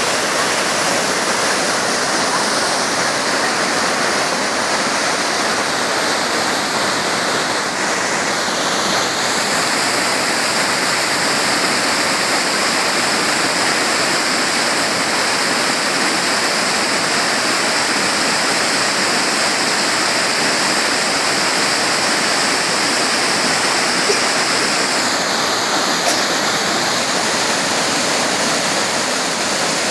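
Waterfall rushing loudly and steadily, a constant roar of white water. Its tone shifts a little about eight seconds in and again about twenty-five seconds in.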